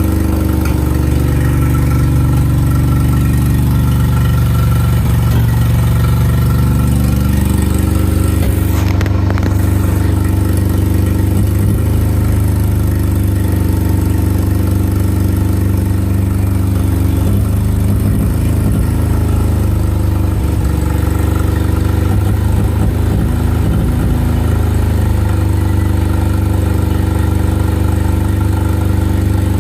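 1987 Nissan 200SX S12 Silvia engine idling steadily after its ECU has been reloaded with new mass airflow sensor settings, with a slight wavering in its note a few seconds in.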